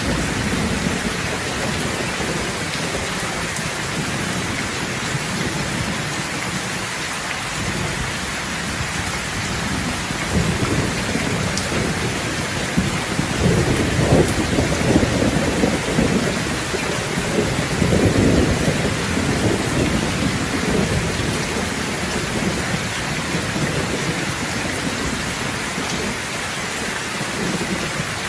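Steady rain falling in a thunderstorm, with low rolling thunder that builds and rumbles through the middle before fading back under the rain.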